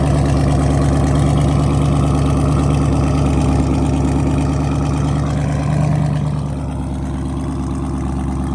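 SRT Jeep's V8 idling loudly through a catless straight-pipe exhaust just after a cold start, a steady deep rumble that eases down a little about six and a half seconds in.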